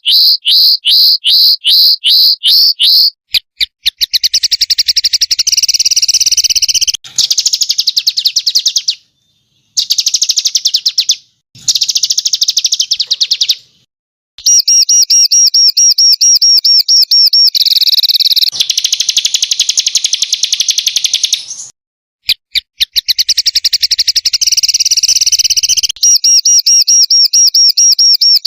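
Recorded song of small songbirds, played as a masteran training tape: a quick run of repeated chirps at about five a second, then dense, rapid-fire trills, the harsh 'tembakan' bursts, in stretches of a few seconds broken by short silent gaps.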